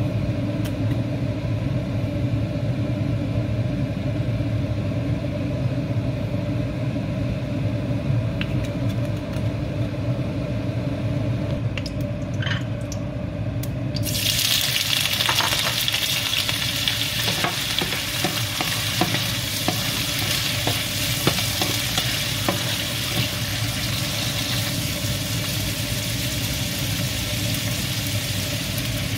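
A steady low hum, then about halfway through chopped octopus is tipped into hot oil in a nonstick frying pan and a loud sizzle starts at once. The frying goes on steadily, with scattered pops and crackles.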